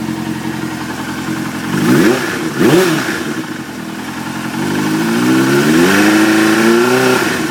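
Suzuki GSX-R600 inline-four engine idling, blipped twice quickly about two seconds in, then revved up more slowly and let fall back to idle near the end. The owner suspects a spun bearing behind an intermittent knock from this engine.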